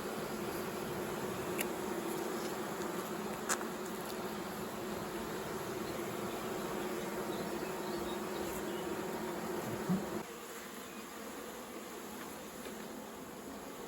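Honeybees buzzing around an open hive: a steady droning hum that drops in level about ten seconds in, with a few faint clicks.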